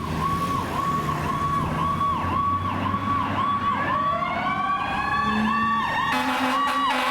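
Fire apparatus sirens on an emergency response: an electronic siren cycles with a quick dip in pitch about every 0.6 seconds. A second siren winds up, rising steadily in pitch from about halfway through. About six seconds in, a deep, blaring, horn-like tone joins them over the trucks' engine rumble.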